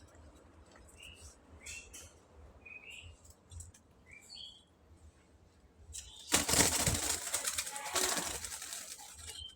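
A quail giving a few short chirps, followed about six seconds in by a burst of wing flapping lasting about three seconds.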